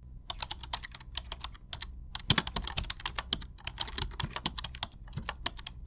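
Fast typing on a computer keyboard: a dense, uneven run of key clicks, with one heavier keystroke a little over two seconds in.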